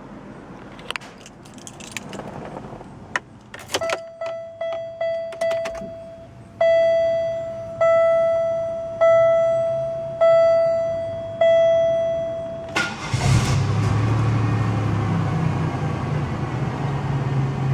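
A few clicks, then the car's warning chime dings: first a few quick dings, then a slower ding about once a second for several seconds. About 13 seconds in, the 1998 Pontiac Grand Prix GT's 3.8-litre V6 cranks, fires right up and settles into a steady idle.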